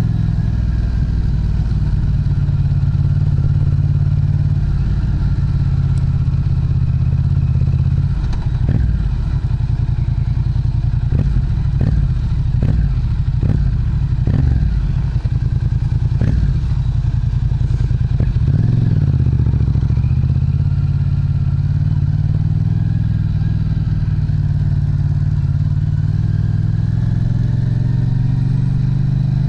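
Yamaha MT-07's parallel-twin engine running through an aftermarket Prunus muffler, mostly steady, with a string of sharp knocks through the middle. Its pitch rises near the end as the engine picks up revs.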